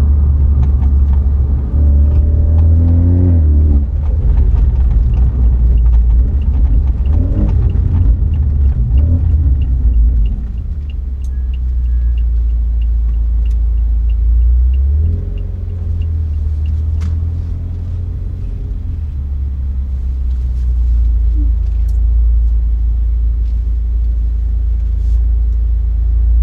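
BMW 330i's B48 turbocharged 2.0-litre four-cylinder running with a deep exhaust rumble. It rises in pitch under acceleration twice early on, then settles to a lower, steady drone from about ten seconds in. Through the middle a turn-signal indicator ticks about twice a second.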